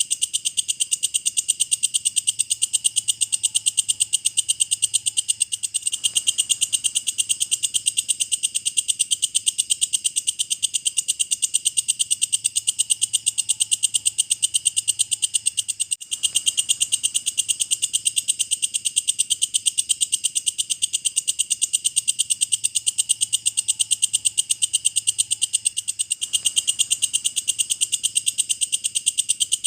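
Walang kecek, an Indonesian singing grasshopper, calling without pause: a fast, even train of high-pitched buzzing chirps.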